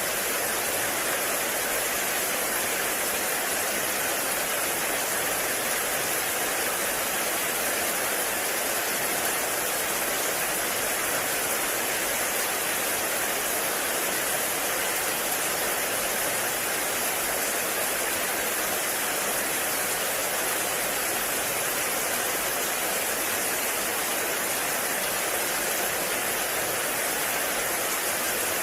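Heavy rain falling steadily in a forest, an even unbroken rush.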